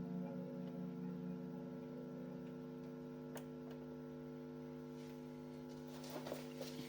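Electronic drone from a noise-box setup dying down to a steady electrical hum of several held tones. A few faint clicks and crackles come in near the end.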